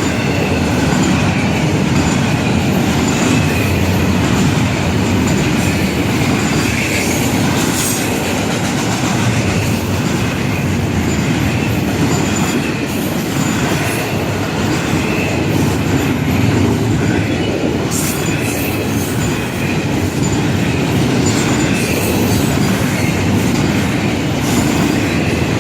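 Freight train cars rolling past close by: a steady rumble of steel wheels on rail, with a faint high wheel squeal and an occasional sharp knock.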